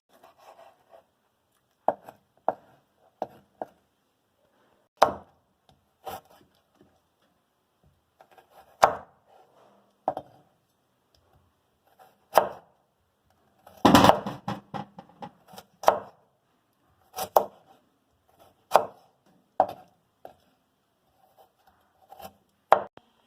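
Knife chopping vegetables on a cutting board: single sharp strikes at uneven intervals, mostly a second or more apart, with a quicker run of cuts about 14 seconds in.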